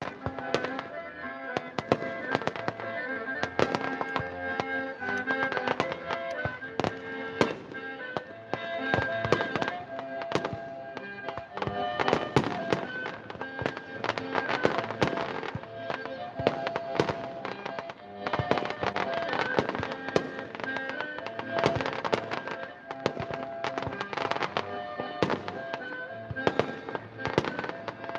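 Fireworks display: a dense, continuous run of bangs and crackling, with music playing underneath.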